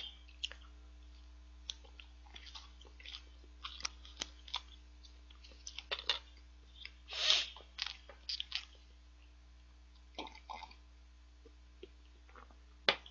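A person chewing a mouthful of soft cheesecake, quietly, with scattered small clicks and rustles and one longer rustle about seven seconds in.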